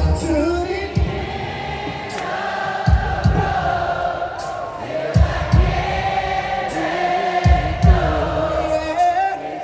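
A concert audience singing along in a mass chorus with the live band, held, wavering voices over occasional low drum thumps.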